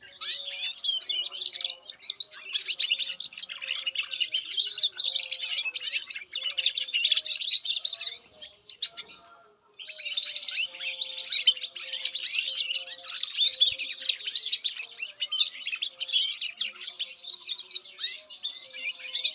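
Canary singing a long, fast, unbroken song of trills and chirps. It breaks off for about a second near the middle, then resumes.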